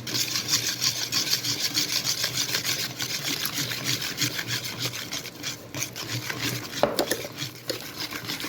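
Rapid, rhythmic scraping in the kitchen, several strokes a second, with a couple of sharper knocks near the end.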